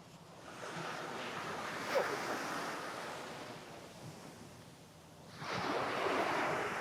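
Small sea waves breaking and washing up a sandy beach: one surge swells in about half a second in and fades away, then a second, louder wave breaks sharply about five seconds in.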